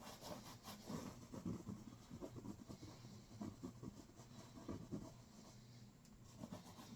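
Palette knife scraping and dabbing white oil paint onto a canvas in many short, irregular strokes, faint, over a steady low hum.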